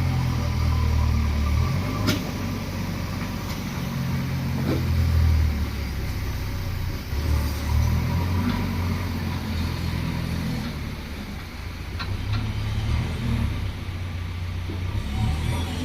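Heavy diesel engines of backhoe loaders and a tipper truck running, the low engine note swelling and easing every second or two as the machines work, with a few sharp knocks.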